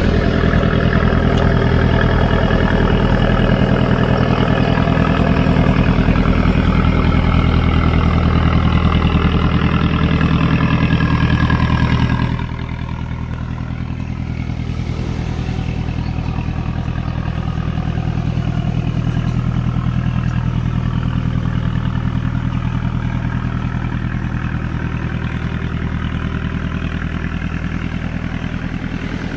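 A boat's engine running steadily, easing off about twelve seconds in and continuing more quietly at a lower setting.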